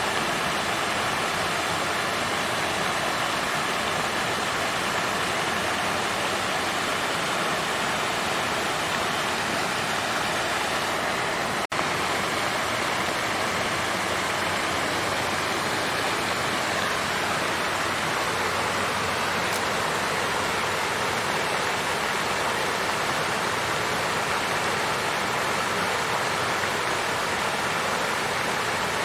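Water fountain running steadily: water flowing and splashing in an even, unbroken rush. There is one brief dropout with a click about twelve seconds in.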